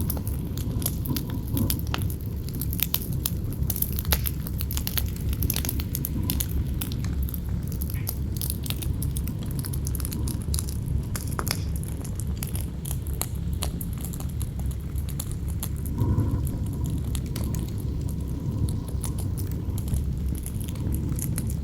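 Campfire crackling with many sharp pops and snaps over a steady low rumble of wind. A gust swells briefly about 16 seconds in.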